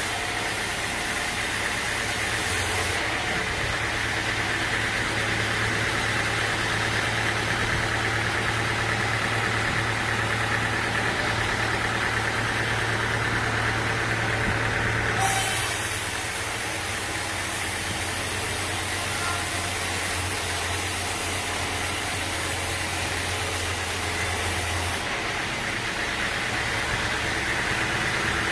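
Sawmill machinery running with a steady mechanical hum. The sound shifts abruptly a few times.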